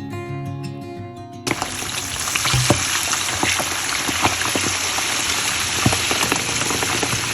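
Acoustic guitar music, cut off about a second and a half in by food sizzling in a hot frying pan, a steady hiss with many sharp crackles and pops.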